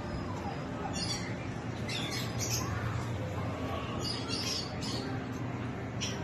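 Birds chirping in short high-pitched bursts, a handful of times, over a steady low hum.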